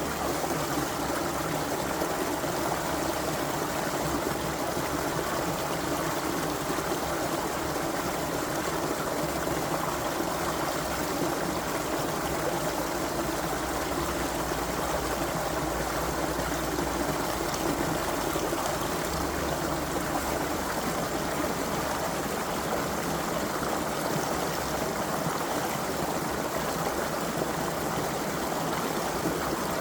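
Creek water flowing, a steady rushing and babbling that never breaks.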